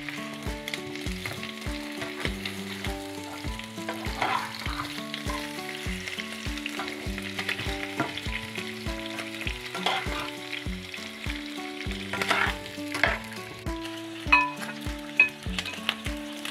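Food sizzling in a hot pot while a metal spoon stirs and scrapes against it, with a few sharp clinks near the end. Background music with a steady beat plays underneath.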